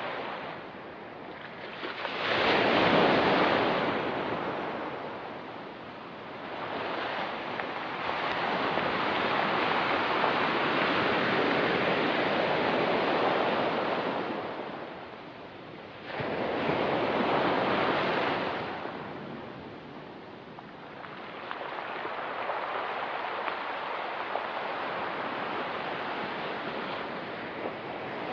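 Ocean waves breaking and washing up a pebble beach, the surf swelling and falling back in repeated surges a few seconds apart.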